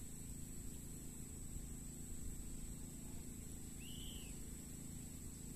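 A single short bird call, an arched note that rises and falls, about four seconds in, over a steady low outdoor rumble.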